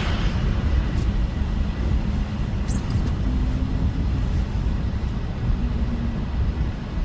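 Car driving on a snowy road: a steady low rumble of engine and tyres, with a couple of faint ticks.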